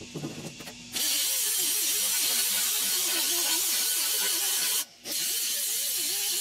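Loud, steady rushing hiss in two long bursts, each starting and stopping abruptly, with a short break just before the five-second mark.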